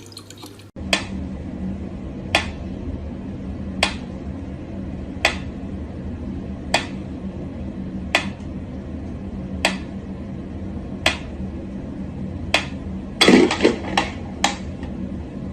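Sharp clicks or taps repeating evenly about every second and a half over a steady low hum, then a quick flurry of several clicks near the end.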